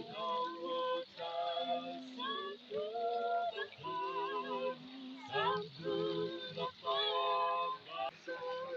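A woman's voice singing a slow worship song in phrases of long held notes with a slight waver in pitch.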